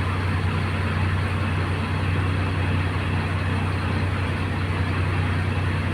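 Truck's diesel engine running steadily, a constant low hum under an even wash of road and cab noise.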